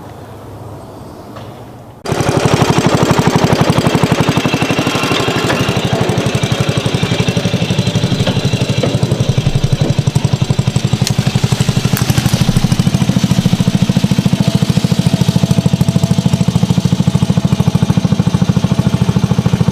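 A small engine running, with a fast, even firing beat that starts abruptly about two seconds in and holds steady.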